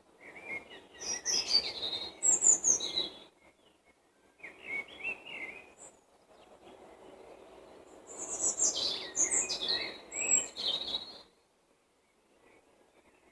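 Songbirds singing: three bursts of quick, varied, high-pitched song, the first and last each a few seconds long, with short pauses between them.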